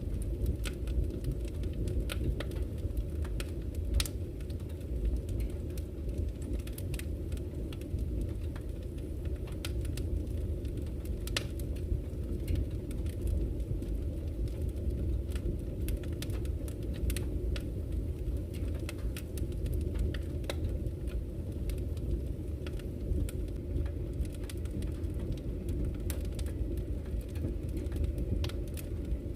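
Campfire crackling, with irregular sharp pops and snaps several times a second, over a steady low rush of flowing river water.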